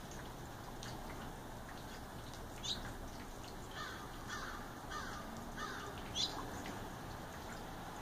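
Birds calling: two short, sharp rising chirps, and between them a run of four lower, falling calls about half a second apart, over a steady faint background hiss.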